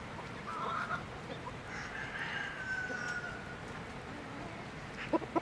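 A rooster crowing once: one long call that falls slightly in pitch, with short chicken calls just before it. Two sharp clicks near the end.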